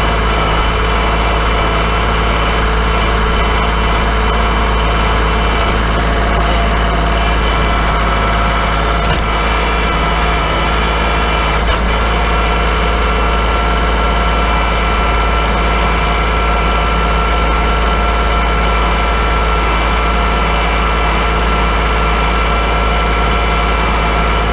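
Kubota L3901 compact tractor's three-cylinder diesel engine running at a steady speed, with a low rumble.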